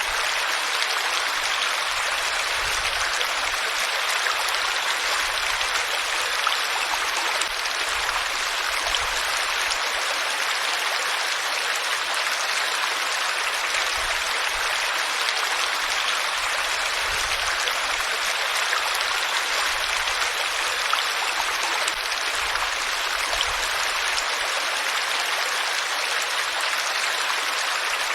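Running water: a steady, even rush of flowing water that does not change.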